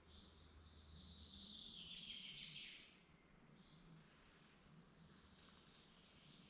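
Faint woodland birdsong: a songbird sings one descending phrase of about three seconds, falling from a high pitch to a lower one, and starts another phrase near the end.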